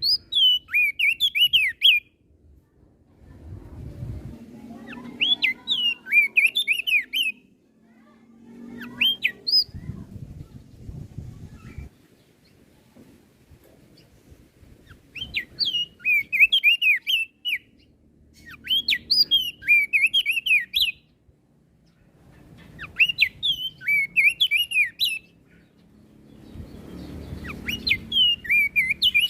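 Crested white-eye (opior jambul) singing: phrases of quick, swooping chirps, each lasting one to two seconds, repeated every few seconds, with a faint low background noise in the gaps.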